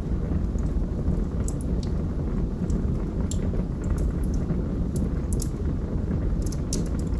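Wood fire burning in a fireplace: a steady low rumble of the flames, with sharp crackles and pops at irregular moments.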